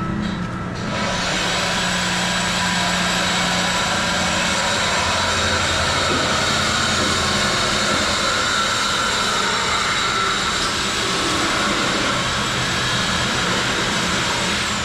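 Cut-off tool cutting through the stock muffler's exhaust pipe: a steady, loud, high grinding whine that starts about a second in, holds for about fourteen seconds, then spins down as the cut ends.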